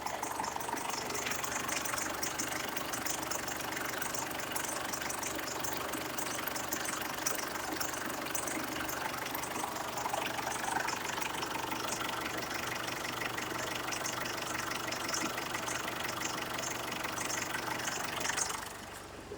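Ford Ranger's 3.0 L four-cylinder turbo diesel idling steadily with a light, even diesel clatter, then dying away near the end as it is shut off.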